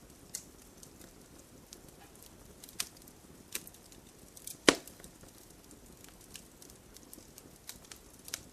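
Wood fire crackling: scattered sharp pops over a faint steady hiss, with one loud pop just past the middle.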